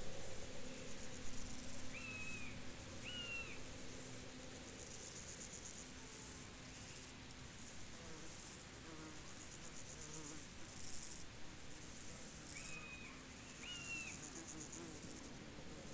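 Field insects chirping in fast, high, pulsed trills that come and go in bursts, with a low steady buzz that stops and starts. A pair of short chirps sounds about two seconds in and again near the end.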